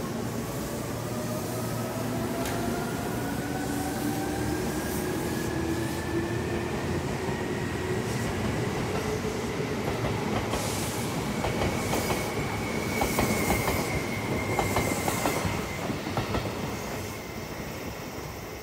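Seibu 2000 series electric train accelerating away, its motor whine rising steadily in pitch. Partway through, the wheels clatter over the points and rail joints, and the sound fades near the end as the train draws off.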